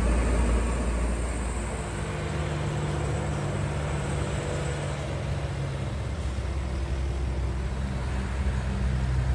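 Heavy truck's diesel engine running steadily, with road noise.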